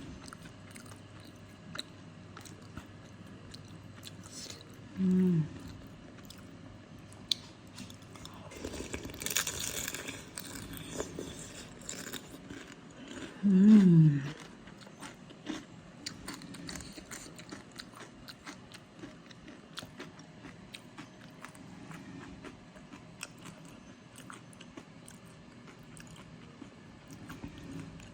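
Close-up eating of soto mie noodle soup: chewing and crunching with many small mouth clicks, and a louder stretch of eating about nine seconds in. Two short hums are heard, about five seconds in and, louder, about halfway.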